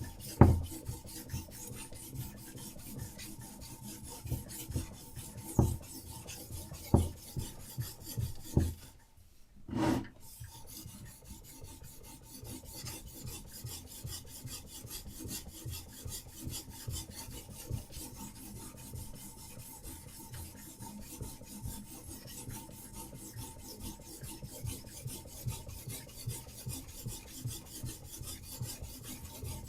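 Diamond sharpening stone rasping along a knife blade in a Hapstone RS guided sharpening system, in rapid, even back-and-forth strokes. A few louder knocks come in the first ten seconds, with a short pause about a third of the way in, before steady stroking resumes.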